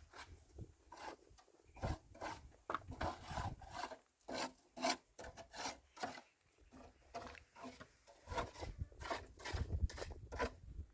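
Irregular rubbing and scraping strokes with a few light knocks.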